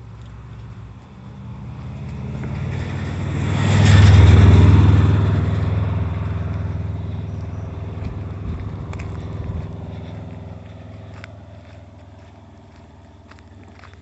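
A motor vehicle drives past: its engine sound builds, peaks about four seconds in, and fades away over several seconds.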